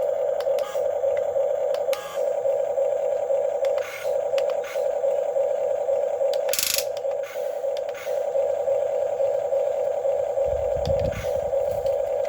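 Huina 1550 RC excavator's electric motors whining steadily while it works, with scattered short scraping clicks and a brief hiss about seven seconds in.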